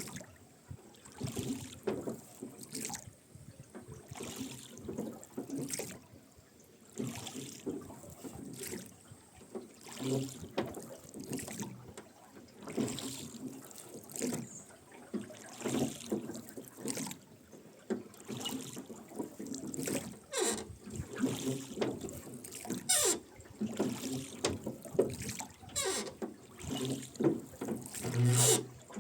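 Wooden rowboat being rowed: the oars dip and splash about every two to three seconds, with the oarlocks creaking at each stroke and water trickling along the hull.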